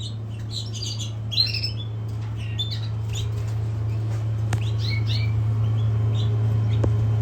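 Caged canary mules giving short, scattered chirps and calls, over a steady low hum.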